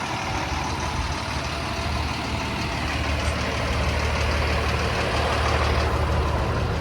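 Engine of a 5,000-gallon jet fuel truck idling steadily with a low hum.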